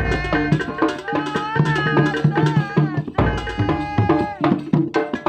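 Kuntulan ensemble rehearsing: hand drums beat a quick, busy rhythm under a wavering melodic line.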